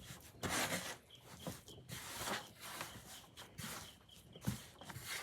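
Hands squishing and rubbing a sticky, crumbly cornstarch-and-shampoo slime dusted with baking soda, in irregular soft rustling strokes.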